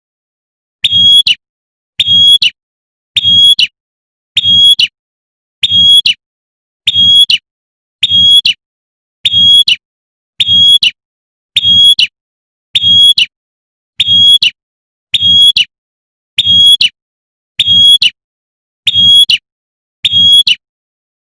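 Female prenjak (prinia) giving its sharp 'tembakan' call over and over, about once every second and a bit, a lure call to draw in males.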